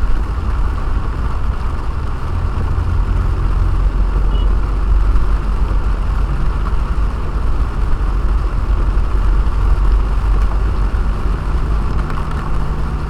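A car's engine and road noise heard from inside the cabin: a steady low rumble with an even hiss over it, the engine note rising slightly about eleven seconds in.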